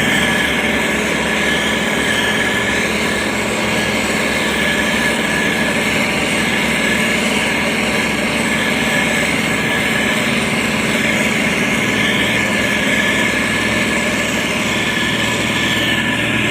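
Diesel engine of a heavy road-building machine running steadily, with a constant whine over the engine sound.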